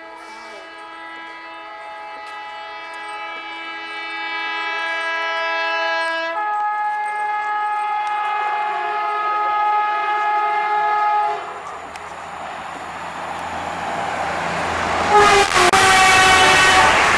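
Indian Railways locomotive horn sounding a long chord blast that changes tone about six seconds in, as the Rajdhani Express approaches at speed. After the horn stops, the train's rumble swells and becomes loud as it rushes past, with another short horn blast near the end.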